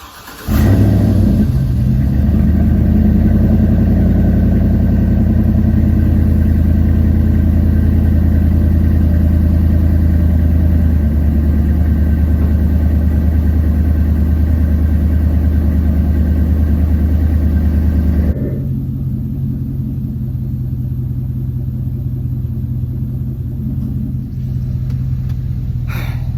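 Chevrolet Silverado's 6.2-litre V8 running steadily, starting abruptly about half a second in. About 18 seconds in it drops suddenly to a quieter, lower running note.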